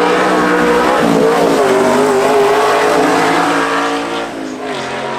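A racing car's engine running loud at high revs as it passes, its pitch dipping briefly about a second in and then holding high, before fading about four seconds in.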